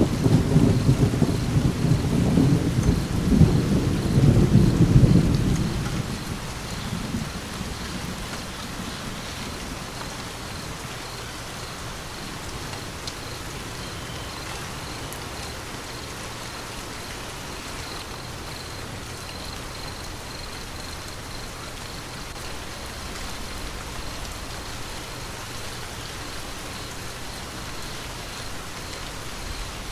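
Steady rain with a low rumble of thunder at the start that dies away after about six seconds, leaving the rain alone.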